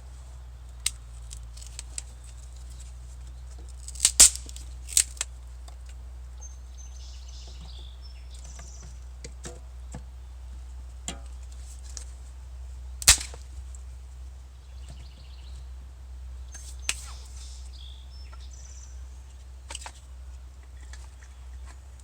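Small pine-kindling fire crackling, with sharp pops every few seconds; the loudest come about four and thirteen seconds in. Birds chirp faintly between the pops.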